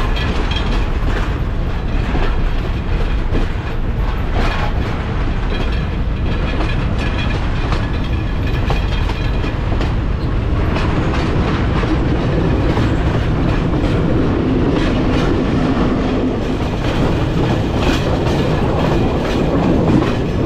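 Sri Lankan Railways passenger train running along the track, heard from an open coach window: a steady rumble with the clickety-clack of the wheels on the rails, growing somewhat louder about halfway through.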